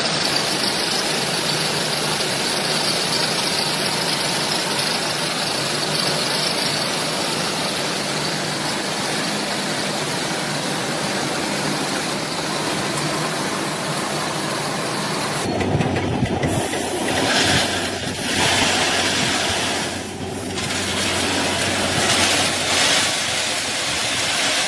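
Train running on the track, a steady noise; about fifteen seconds in the sound changes abruptly and becomes uneven, rising and falling.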